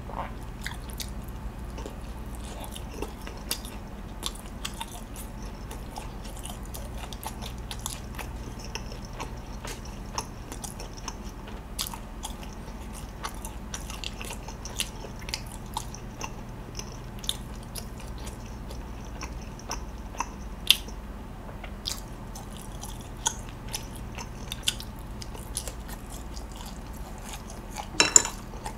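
Close-miked biting and chewing of sauced chargrilled chicken pulled off a skewer: many small, irregular wet clicks and smacks over a steady low hum, with a louder knock near the end.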